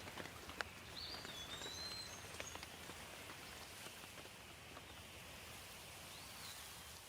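Steady rain with individual drops tapping sharply, and a bird giving a few short whistled calls about a second in and again near the end.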